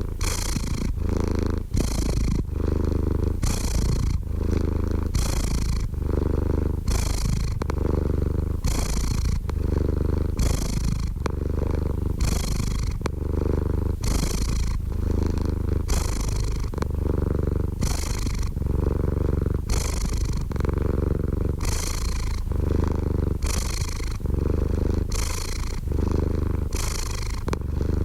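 Domestic cat purring close up, a steady low rumble that swells and eases about once a second with its breathing in and out.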